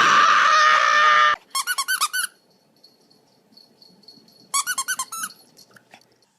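A dog's squeaky toy being squeezed. It gives a long loud squeal first, then two quick runs of short squeaks a few seconds apart.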